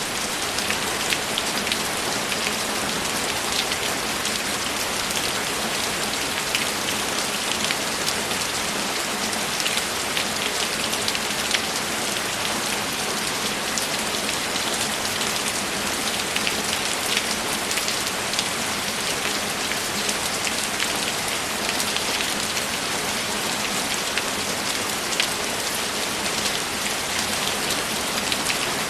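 Steady rain with fine, dense drop ticks falling on a surface.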